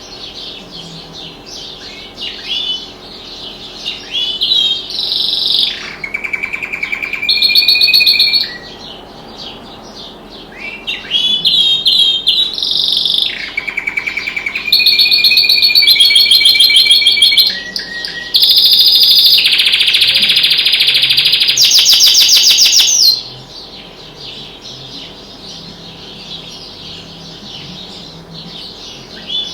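Pet canary singing a long song of fast repeated notes and rapid trills, loudest in long rolling trills in the second half, stopping about 23 seconds in. Faint chirps from other birds follow.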